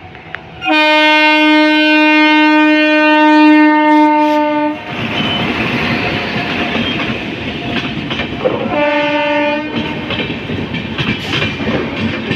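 WAP-7 electric locomotive sounding its horn in one long steady blast of about four seconds. Then the passenger coaches roll past with their wheels clattering over the rail joints, broken by a second short horn blast around nine seconds in.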